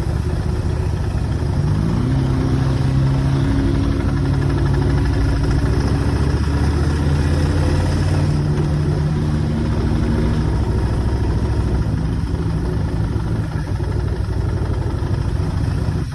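Motorcycle engine running on the move, a steady note that steps up in pitch about two seconds in and then holds.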